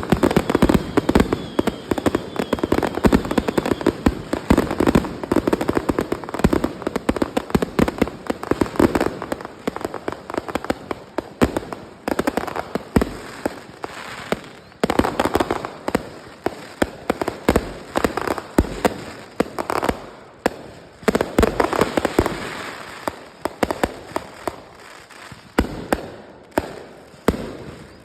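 Fireworks going off in a continuous barrage of sharp bangs and crackles, several reports every second with louder blasts scattered throughout.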